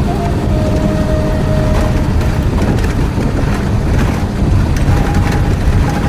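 Steady low rumble of a moving vehicle with wind on the microphone, a faint steady tone over it in the first couple of seconds.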